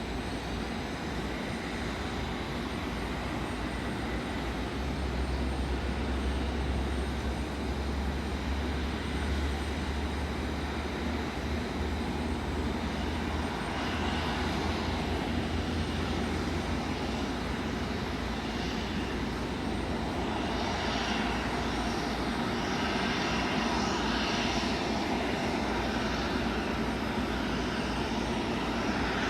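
Airbus A330 airliner's twin jet engines running steadily, a continuous hum and rush that slowly grows louder, with a higher hiss joining about halfway through.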